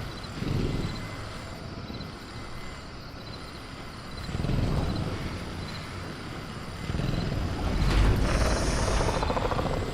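Sound-effect ambience of a caged velociraptor: low rumbling growls swell up three times, the longest near the end, over faint, evenly spaced cricket chirps. A brief high hiss rises over the last growl.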